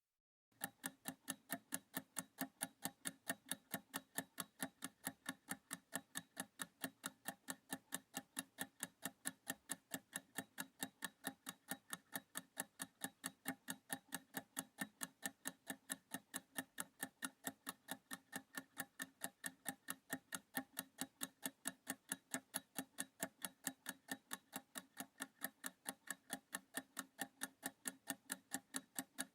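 Clock-tick sound effect counting down a 30-second practice timer: a steady, even ticking, a few ticks a second.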